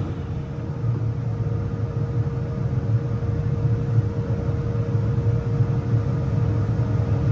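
Electric woodshop machine running steadily, a low hum with one steady mid-pitched tone above it.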